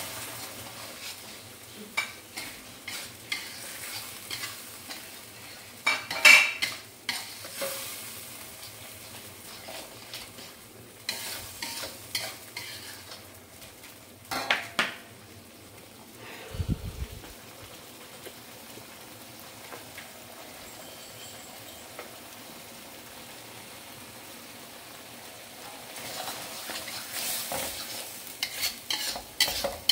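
Chilli spice paste sizzling as it fries in hot oil in a steel wok. A wooden spatula stirs it, scraping and knocking against the pan now and then, with a louder clatter about six seconds in and a busier run of stirring near the end.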